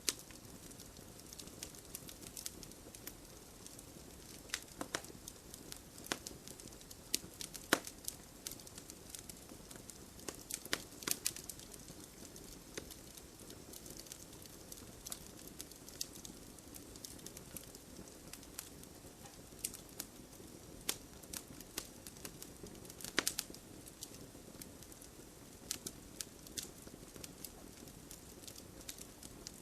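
Wood fire burning in a fireplace: a steady low hiss of flames with irregular sharp crackles and pops, a few louder snaps scattered through.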